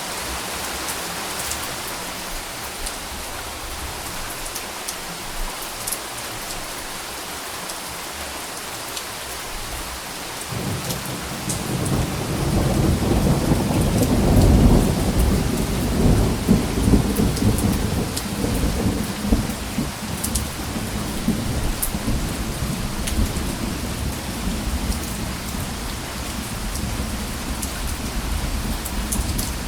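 Steady rain falling, with a long low rumble of thunder that builds about a third of the way in, peaks, and slowly fades while the rain goes on.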